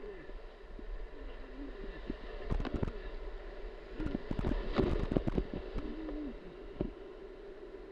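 Rushing whitewater, with a run of sharp knocks and clatters about two and a half seconds in and a longer, louder cluster between about four and five and a half seconds in.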